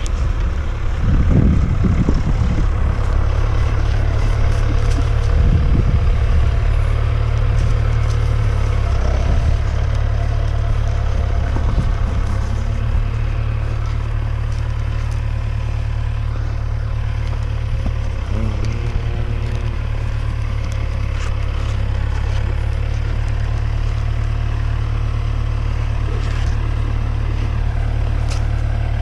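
An engine running steadily: a continuous low drone that holds level throughout.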